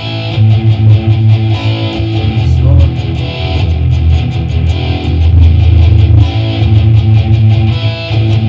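Guitar strummed in a steady rhythm of quick strokes, playing small chord shapes on the bass strings: the 4th and 5th strings fretted at the 2nd fret, then the open 5th with the 3rd and 4th fretted at the 2nd.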